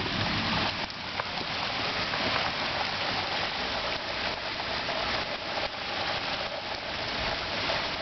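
Steady thunderstorm rain pouring down, an even hiss of falling water.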